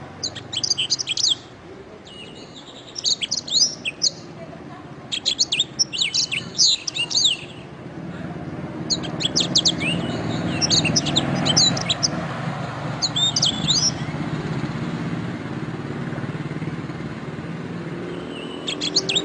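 Canary singing in short phrases of rapid high trills and chirps, with pauses between them and a longer pause in the later part, over a steady low rumble.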